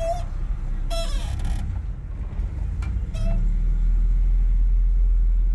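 Vehicle engine running, heard from inside the cab as a steady low rumble that grows louder about three seconds in as the vehicle moves off. A few short high squeaks sound over it.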